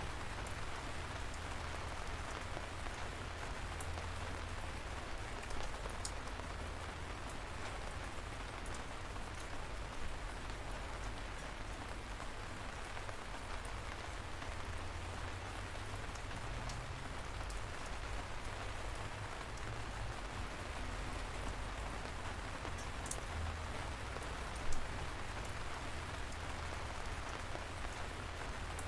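Light, steady rain: an even patter of drizzle with a low rumble underneath. Now and then a single louder drop strikes close by, most plainly about ten seconds in and again near the end.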